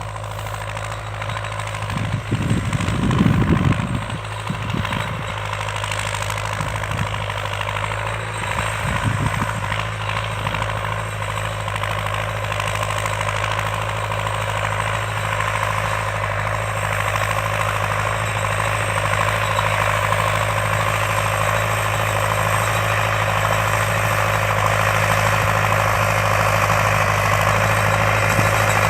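HMT 6522 tractor's diesel engine running steadily, with a few low thumps about two to four seconds in.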